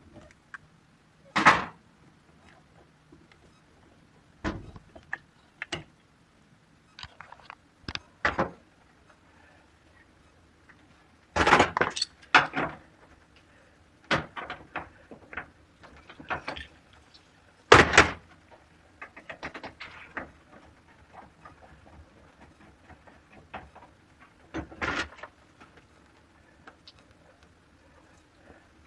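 Irregular knocks and clatter from tools and appliance parts being handled during a washing-machine repair, with the loudest bangs about a second and a half, twelve and eighteen seconds in.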